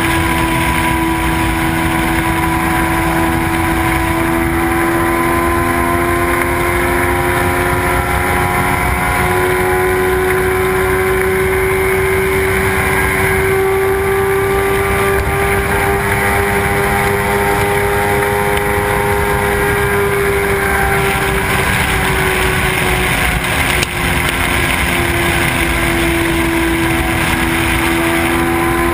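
Suzuki sport bike's engine running steadily at motorway speed, mixed with the rush of wind. The engine note climbs a little midway and eases back again, with a brief dip in loudness late on.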